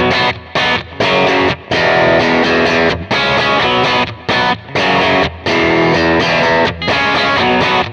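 Electric guitar played through a Kemper profile of a 1966 Vox AC30 amp (the "66 AC30 J Overdrive"), chiming, lightly overdriven chords in short phrases with brief stops between them.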